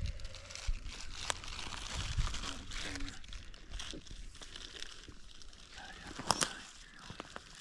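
Crinkling and rustling of a paper deer tag being handled and filled out, with scattered small clicks and one sharper click about six seconds in.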